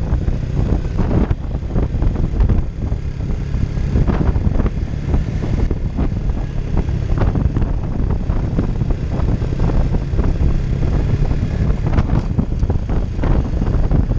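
Honda Innova 125's air-cooled single-cylinder four-stroke engine running steadily on the move, a continuous drone with rough rumbling noise over it.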